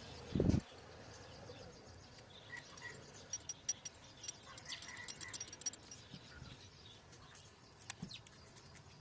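A dull thump, then scattered light clicks and clinks of parts and tools being handled while the CNG injector is refitted, with a few short high bird chirps in the background.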